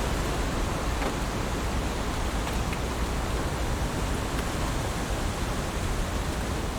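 Heavy rain falling steadily: an even, dense hiss with a few faint single drop ticks.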